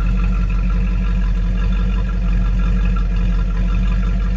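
1970 Ford F250's 360 FE V8 idling steadily. Its carburetor's idle air screws are turned all the way in for the highest vacuum, a setting the owner doubts is right on what he suspects is the wrong carburetor for this engine.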